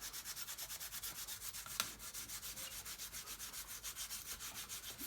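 Rapid back-and-forth rubbing, about eight strokes a second, as wax is worked onto a handmade steel hinge. One sharp click about two seconds in.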